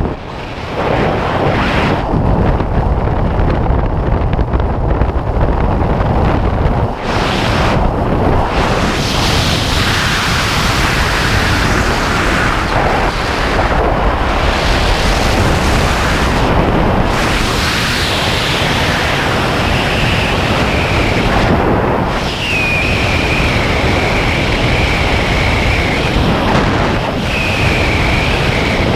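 Loud wind rushing over a skydiver's camera microphone, a steady roar of air with brief dips. A thin high whistle comes and goes in the second half.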